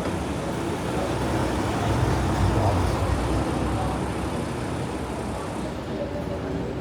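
City street traffic: vehicles passing on the road, with a low engine rumble that swells about two to three seconds in, then eases off.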